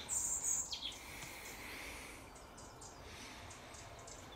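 Quiet outdoor ambience with birds chirping. A louder high call slides downward in the first second.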